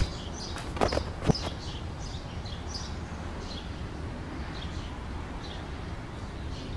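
Birds chirping over a quiet outdoor background, with two dull thuds about half a second apart about a second in.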